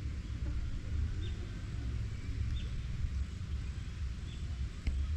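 A bird giving short, high call notes about once a second, over a steady low rumble on the microphone.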